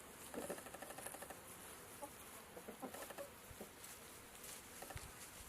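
Chickens clucking faintly in a few short, scattered calls, with light rustling.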